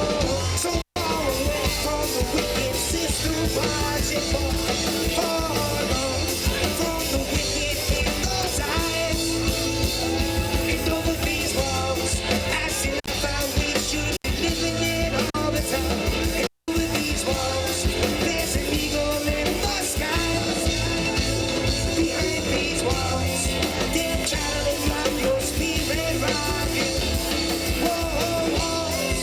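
Live roots reggae band playing a song, full band with bass and drums. The sound cuts out for an instant twice, about a second in and again about halfway through.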